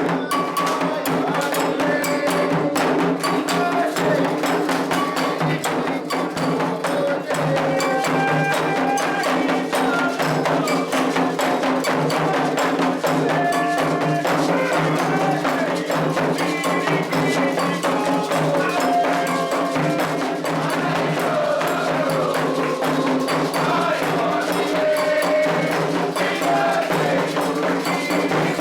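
Candomblé ritual music: voices singing over a fast, steady rhythm of hand drums and a struck metal bell, the atabaques and agogô of a Candomblé toque.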